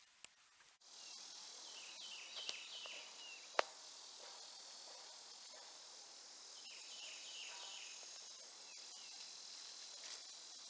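Insects trilling steadily in a high-pitched chorus, with a few short falling chirps and one sharp click about three and a half seconds in.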